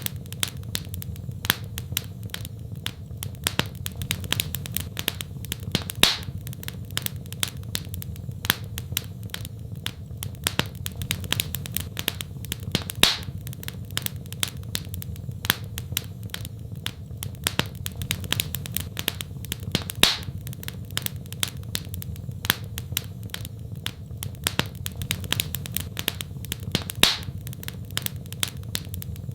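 Wood fire in a fireplace crackling, with a constant run of small snaps over a low steady rumble and a louder pop about every seven seconds.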